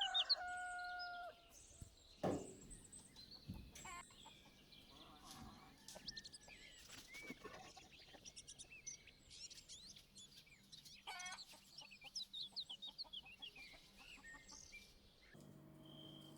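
Chickens clucking faintly, with a drawn-out call at the start and a single knock about two seconds in.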